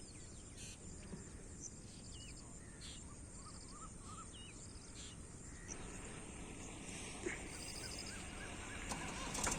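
Small birds chirping and trilling over a steady low outdoor background rumble, which grows a little fuller in the last few seconds.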